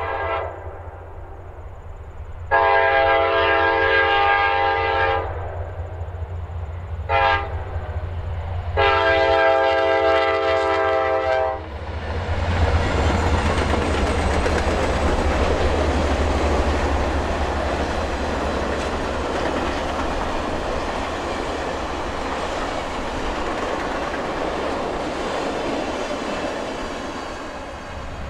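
Freight-railroad locomotive horn sounding a multi-note chord in the grade-crossing pattern: the tail of one long blast, then long, short, long. Its passenger cars then roll past with a steady rumble and clickety-clack of wheels over rail joints.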